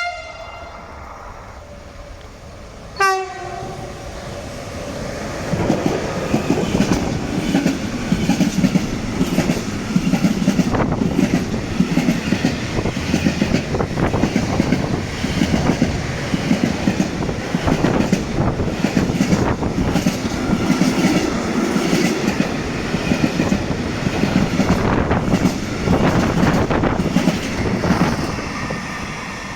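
A freight train sounds two short horn toots about three seconds apart, then passes close by. Its wagons rumble and its wheels clatter over the rail joints for about twenty seconds, easing off near the end.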